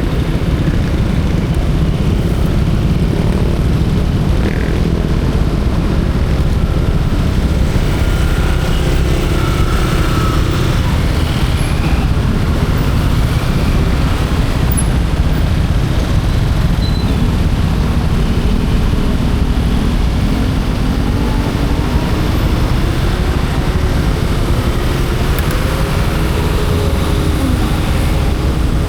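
Steady road noise of a motorcycle ride: an engine running under a dense, even rush of noise. In the second half, faint pitches rise and fall as engines change speed.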